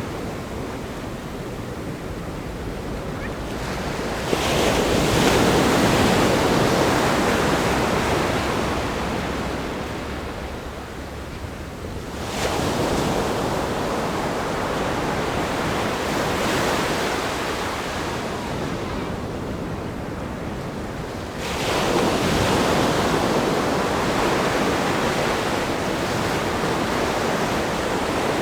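Ocean waves breaking on a rock groin and washing back. Three waves break in turn, about 4, 12 and 21 seconds in, each starting suddenly and fading slowly, over a steady wash of surf.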